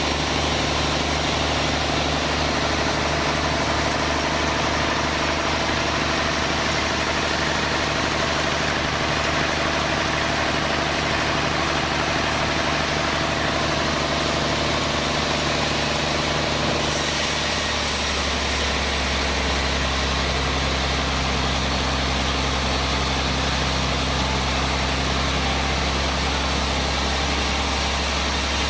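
Sawmill band saw machinery running with a steady, loud engine-like drone; its tone shifts abruptly about seventeen seconds in.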